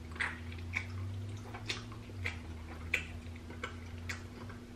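Close-miked mouth sounds of a man gnawing oxtail meat off the bone: wet lip-smacks and chewing clicks at an uneven pace, roughly one or two a second, over a faint steady hum.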